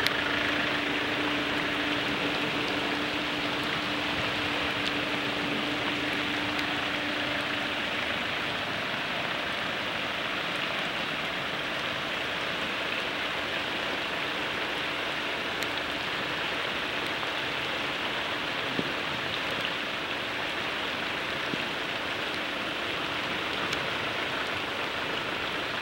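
Steady rushing of heavy rain together with a stream in flood, its water running high over its banks.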